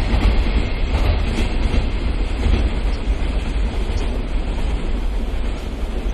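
Container freight train's wagons rolling over the rails, a low rumble with a few wheel clacks in the first second or so, growing slowly quieter.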